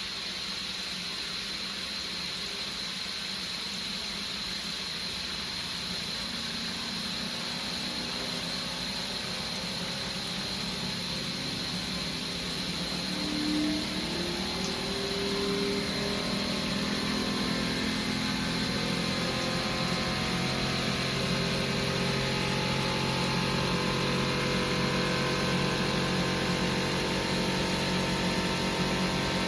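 A 1978 Siemens WA4600 washing machine with a steady hiss at first. About halfway through, a motor hum rises slowly in pitch and gets louder as the drum speeds up, typical of the machine winding up into its spin.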